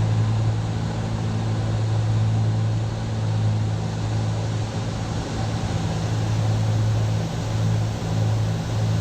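Steady cabin drone of a Cessna 310's twin six-cylinder piston engines running at low taxi power, a constant low hum with even noise over it.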